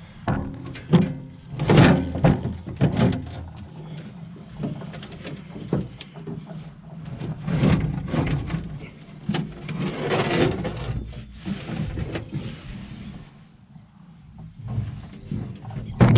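Repeated scraping and knocking of a garden tool working soil and compost, as a batch is mixed by hand, over a steady low engine hum from the tractor.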